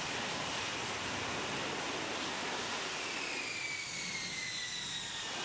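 F-35B jet engine running, a steady rushing roar of exhaust with a high whine that slowly falls in pitch in the second half.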